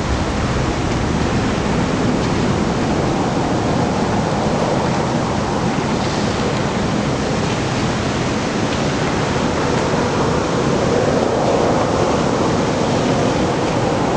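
Strong wind blowing across the microphone, a loud, steady rushing noise that swells slightly near the end.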